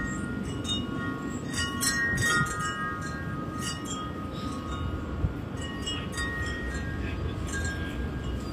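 Wind chimes ringing and clinking, struck over and over in a gusty wind, over a steady low wind rumble.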